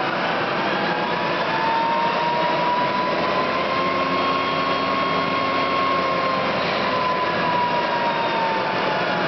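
Lagun FTV-2S variable-speed vertical milling machine running, with a whine that rises in pitch through the first half and falls back toward the end as its speed is changed.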